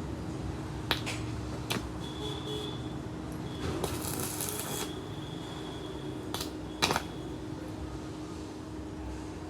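Workshop work sounds: a few sharp clicks and taps, two near the start and two close together near the end, with a short rushing noise about four seconds in, over a steady low hum.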